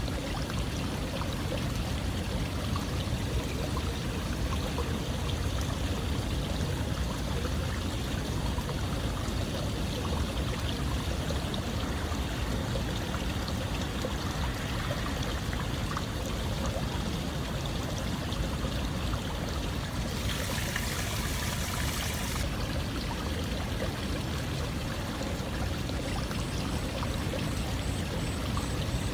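Running water flowing steadily in an even rush, heaviest in the low end, with a brighter hiss for about two seconds some twenty seconds in.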